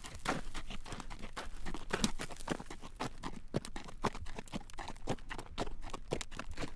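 A horse's hooves clip-clopping on a road at a walk while it draws a carriage: an uneven run of hard clacks, several a second.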